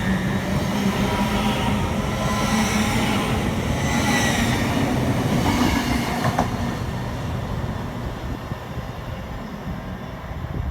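A train running on the track with rail and wheel noise, loud and steady at first and then dying away after about six seconds.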